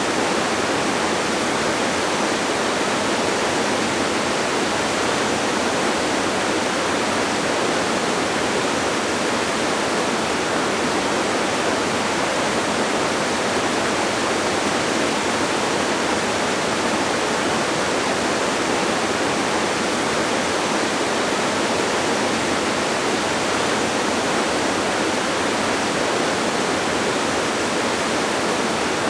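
Waterfall rushing in a steady, unchanging hiss of falling water, with little deep rumble.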